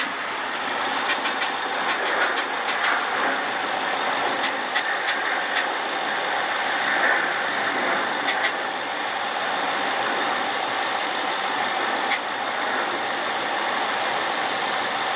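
The 5.0 V8 of a 2011 Ford Mustang GT idling steadily, with the ticking the owner has heard since the first day and cannot explain. A few sharp clicks stand out over the first half.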